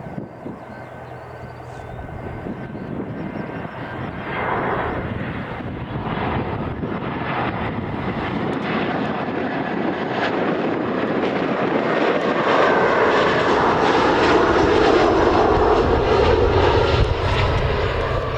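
Fixed-wing aircraft engines growing steadily louder as the plane passes close by, loudest in the last third and easing off near the end.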